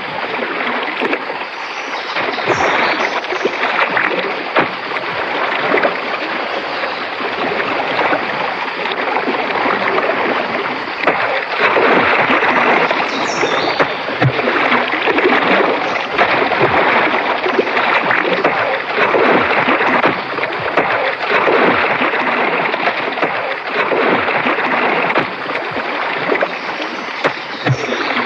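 Shallow lagoon water splashing and sloshing in irregular surges, with no steady engine tone, growing louder about a third of the way in.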